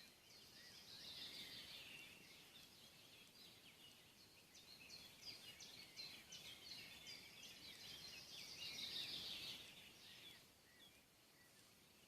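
Faint chorus of songbirds: several birds singing quick, high chirps and trills that overlap. It is busiest about a second in and again around nine seconds, over a soft outdoor hiss.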